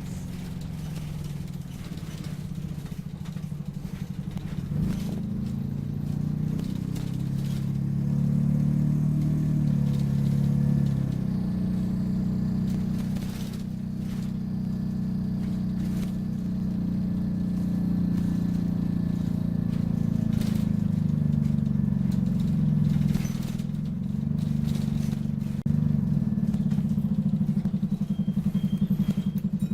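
Optare Solo midibus running on the road, its diesel engine note stepping up and down as it speeds up and slows, with rattles and knocks from the bodywork.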